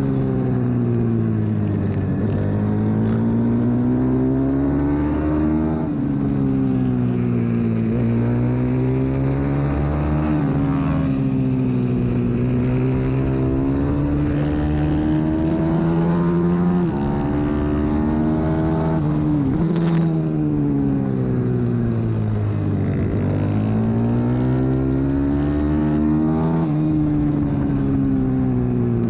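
A 125 cc pit bike's single-cylinder engine heard onboard while racing. Its pitch climbs under acceleration and drops off into braking, again and again, with a sharp click about 20 seconds in.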